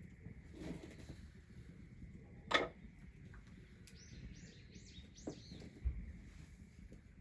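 Rural outdoor ambience with a bird singing a short phrase of about five quick, high chirps around four to five seconds in. A single sharp crack or knock about two and a half seconds in is the loudest sound, and a soft low thump follows near six seconds.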